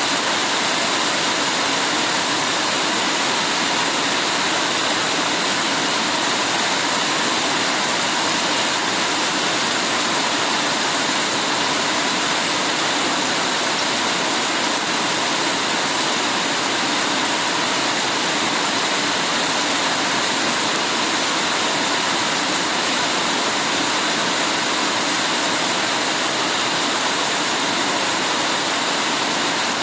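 Heavy rain falling steadily, an even rushing hiss with no single drops, thunder or other events standing out.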